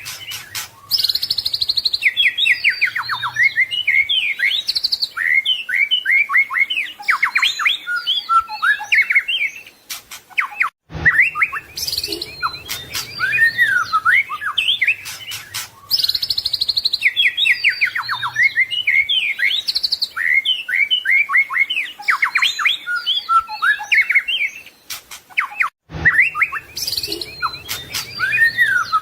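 White-rumped shama (murai batu) singing a long, varied song of quick whistles, trills and rattling notes, filled with mimicked phrases of other birds. It is a looped recording: the same passage repeats about every fifteen seconds, with a brief cut between loops.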